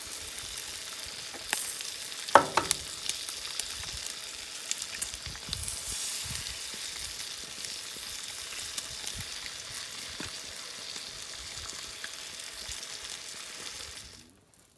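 Food sizzling in a frying pan, a steady hiss with small crackles, with one sharp metal clink about two seconds in. The sound cuts off suddenly near the end.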